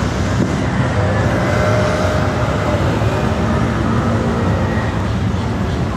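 Steady road and traffic noise while driving, a constant low rumble with faint humming tones through the middle.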